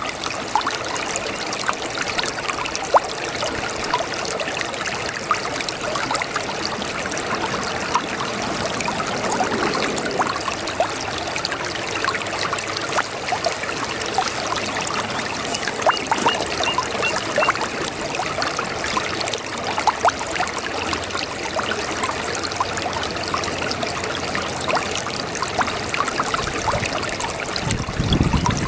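A babbling brook: a steady rush of running water full of small trickles, splashes and gurgles, with a deeper surge near the end.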